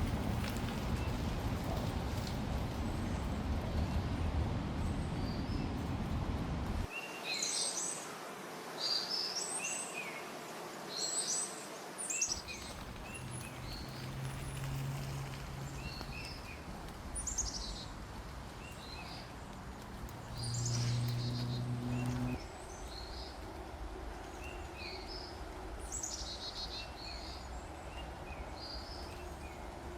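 Small songbirds chirping and singing in short repeated phrases. A steady low rumble underlies the first few seconds and stops about seven seconds in; a low hum comes and goes twice later.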